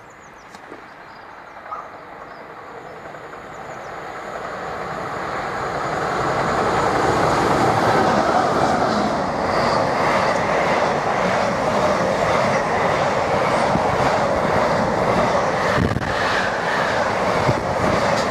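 A train approaching and passing along the track, growing steadily louder over the first seven seconds and then running past, with the wheels clattering over the rail joints.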